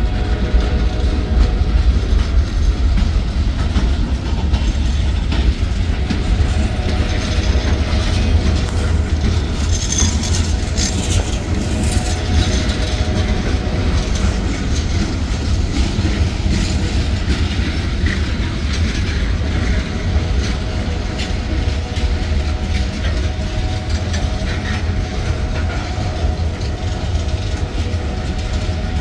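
Freight cars of a manifest train rolling past on street-running track: a steady low rumble with the clatter of wheels over the rail. A few brief high squeaks come about ten to twelve seconds in.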